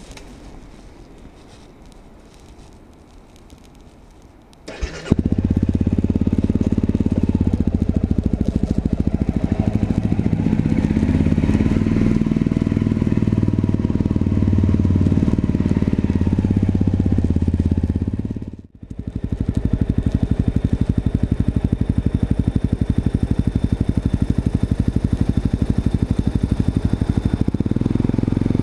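Honda CRF250M's single-cylinder four-stroke engine with a Moriwaki full exhaust starting up about five seconds in, then running loud and steady with some changes in engine speed. The sound cuts out abruptly for a moment about two-thirds of the way through, then resumes.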